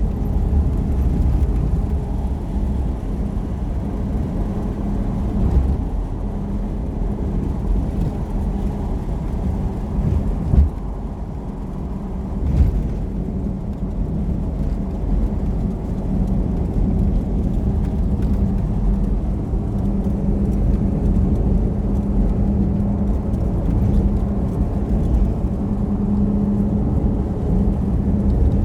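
Steady engine and road rumble of a moving vehicle heard from inside the cabin, with a constant low hum and two brief knocks about ten and twelve seconds in.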